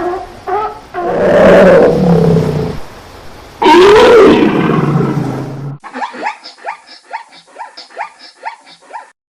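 A large animal roaring twice, each loud roar lasting about two seconds. Then comes a quick series of short falling chirps, about four a second, which stop shortly before the end.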